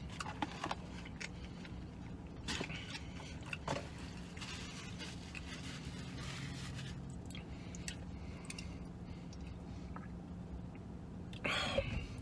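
A man chewing a mouthful of McRib sandwich, with short crinkles and scrapes from its paper wrapper and cardboard box, and a louder rustle near the end. A steady low hum runs underneath.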